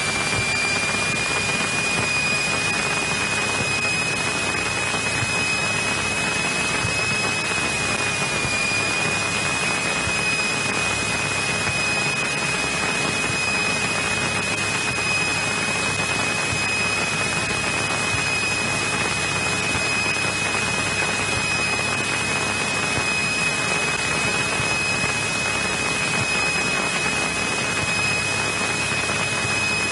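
Steady cockpit noise of a 1963 Cessna 172E with its Continental O-300 six-cylinder engine running at low power while taxiing, carrying a steady high-pitched whine that rises slightly in the first couple of seconds and then holds.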